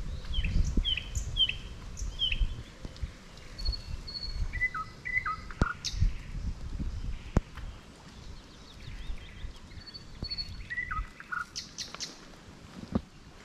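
Songbirds singing: a run of descending chirps, then the same short phrase of notes twice, about six seconds apart, with other chirps between. Under them is a low uneven rumble that dies away about eleven seconds in, and there are a few sharp clicks.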